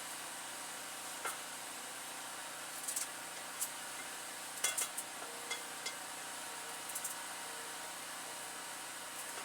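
Scattered light clinks and knocks of kitchen utensils and dishes being handled, over a steady hiss; the loudest few come close together about halfway through.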